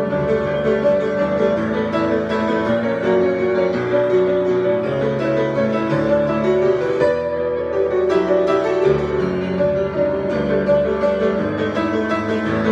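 Solo piano improvisation: continuous keyboard playing with held chords and melody notes.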